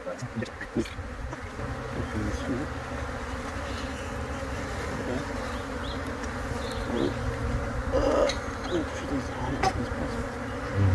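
A honeybee colony buzzing steadily, the dense, continuous hum of many bees, with a few faint knocks.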